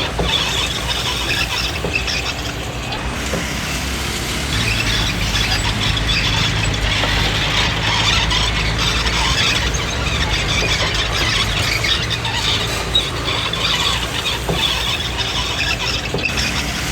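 Komatsu D20P crawler bulldozer on the move, its steel tracks squealing and clanking over the steady low running of the diesel engine.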